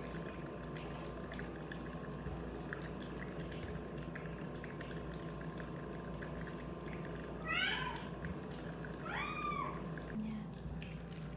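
A cat meows twice, about seven and a half and nine seconds in, the second call rising and then falling. Under both runs the steady hum and bubbling hiss of a nebulizer.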